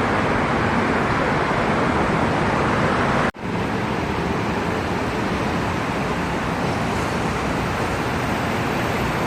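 Steady road traffic noise, a continuous rush of passing vehicles, broken by a short gap about three seconds in.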